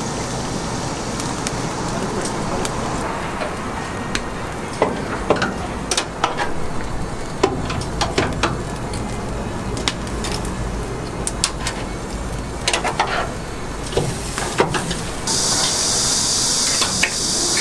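Oak-charcoal chicken roasting: a steady cooking noise with scattered sharp crackles and clicks. A loud steady hiss starts near the end.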